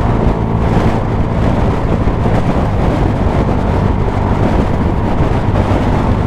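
Suzuki GSX-S125's single-cylinder four-stroke engine through a Mivv GP Pro aftermarket exhaust, running at a steady pace while riding, with wind noise on the microphone.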